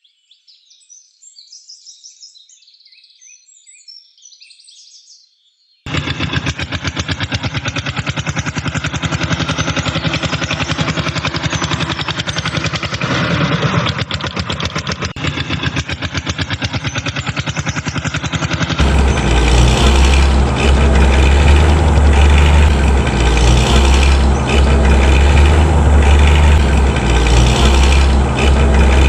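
A few seconds of faint high chirping, then a heavy vehicle engine starts up loud and runs with a fast rattling beat, turning deeper and heavier about two-thirds of the way through.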